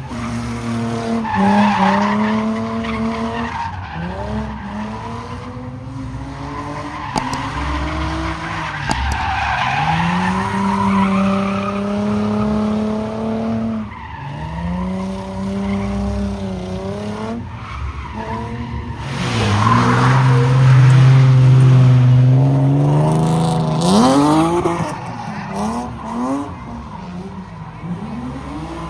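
A car engine revving hard, its pitch climbing and falling over and over, with tyres squealing as the car spins in a car pit. About twenty seconds in, the engine is held at a steady high rev for several seconds, the loudest stretch.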